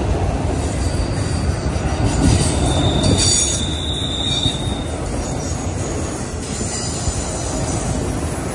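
CSX autorack freight train rolling past: a steady rumble of wheels on rail, with a brief high wheel squeal about three seconds in.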